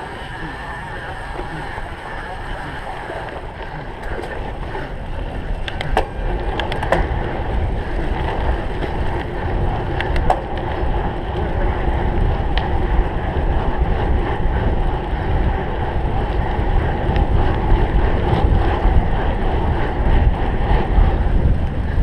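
Wind buffeting a bike-mounted camera's microphone over the rumble of tyres rolling on a rough cyclocross course, growing louder through the stretch as the speed picks up. There are a few sharp clicks and knocks from the bike about six, seven and ten seconds in.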